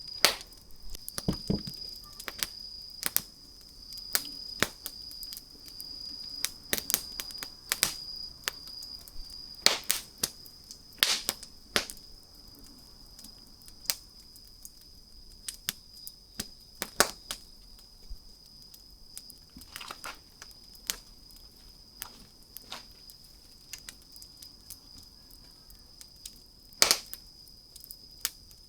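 Wood campfire crackling, with irregular sharp snaps and pops from the burning wood, a few much louder than the rest.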